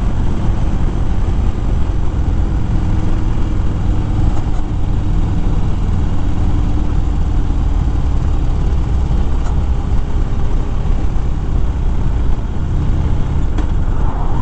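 2013 Harley-Davidson Fat Bob's V-twin engine running steadily while riding at road speed, mixed with heavy wind noise on the microphone.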